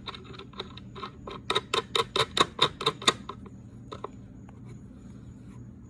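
A run of sharp clicks as the metal rods and the crankshaft installer tool are fitted together by hand. The clicks come in a quick even series of about five a second in the middle, then one last click about four seconds in.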